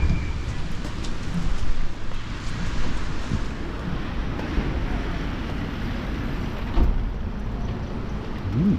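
Steady noise of heavy rain on a wet street with traffic passing, and two knocks, one about two seconds in and one about seven seconds in.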